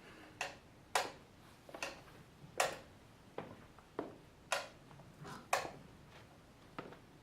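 A series of short, sharp clicks or knocks, unevenly spaced at roughly two a second, with nothing else heard between them.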